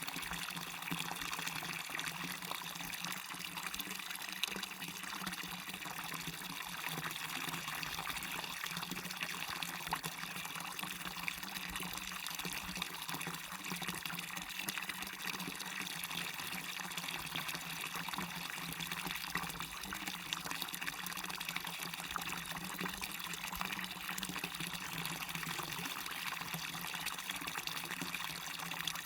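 Water of a small waterfall splashing and running steadily, an even rushing trickle with no breaks.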